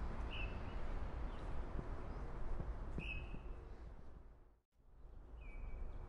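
Three short, high bird call notes a couple of seconds apart, over a steady low rumble of wind. The sound cuts out briefly about four and a half seconds in.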